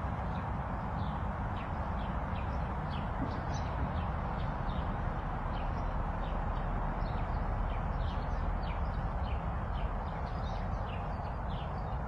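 Small birds chirping in short, quick downward-sliding calls, several a second, over a steady background rumble and hiss.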